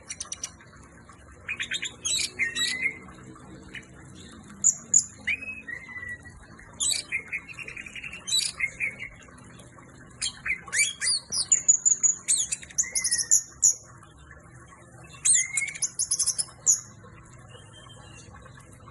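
Orange-headed thrush (anis merah) in full song, delivering a string of varied phrases of high, rapid notes and trills separated by short pauses.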